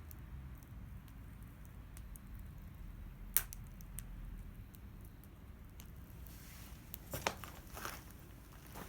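Bonfire crackling, with scattered sharp pops: a loud one about three and a half seconds in and a quick cluster near the end, over a low steady rumble.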